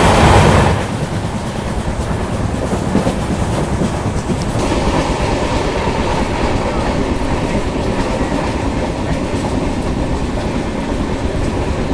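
Passenger coach of an express train running at speed, heard at an open coach door: steady rolling noise with the wheels clattering over the rails. The noise is louder for about the first second, then settles at a steady level.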